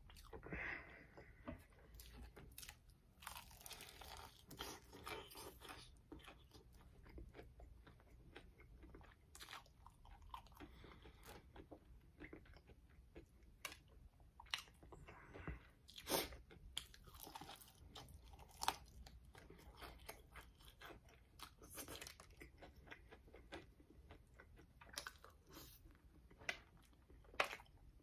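A person biting and chewing crispy fried chicken, with irregular sharp crunches between softer chewing.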